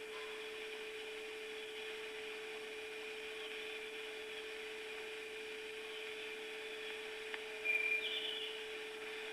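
Steady hum and hiss from an old soundtrack, with a short high chirp about eight seconds in.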